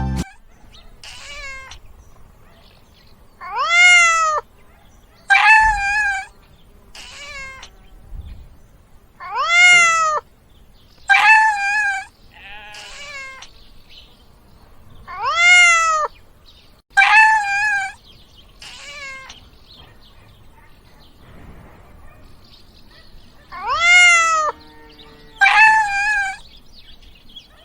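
Domestic cat meowing repeatedly: about eight clear meows, in pairs of a rising-then-falling meow followed by a flatter one, with fainter meows in between.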